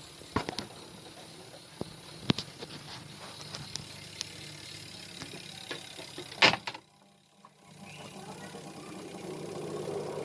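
Single-tub washing machine motor humming while it is struck with several sharp knocks: the motor will not turn unless it is hit. The loudest knock comes about six and a half seconds in, the sound drops out for about a second, then a steady running noise builds up toward the end.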